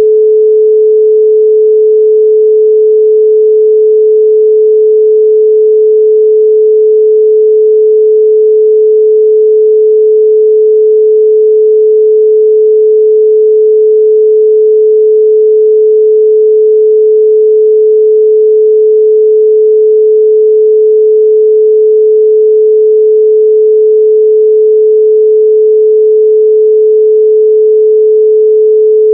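Loud, steady pure sine tone at 432 Hz: one unwavering pitch with no overtones.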